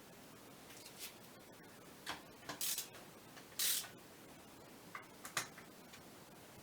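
Scattered light clicks and taps, with a few short scraping clatters about two and a half and three and a half seconds in, of small metal parts and tools being handled during reassembly of a Scania electronic clutch actuator.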